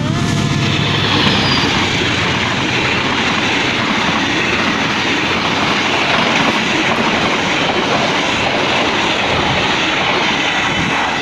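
KA Sancaka passenger train passing close by at speed: a loud, steady rush of steel wheels on rail, with the carriages clattering past.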